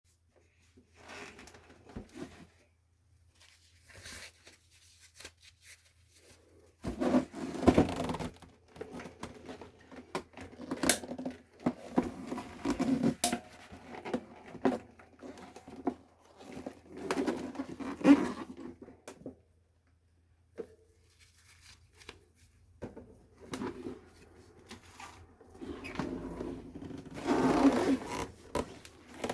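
Irregular handling noises in short bursts with quiet gaps: scraping, rustling and light clicks of objects being moved and worked by hand.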